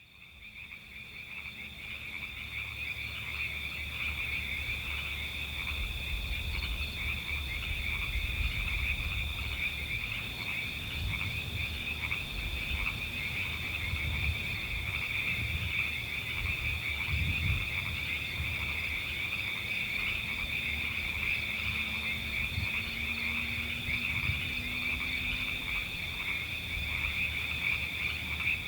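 A dense chorus of many frogs calling at once, forming a steady high-pitched trilling wall of sound. It fades in over the first couple of seconds, then holds.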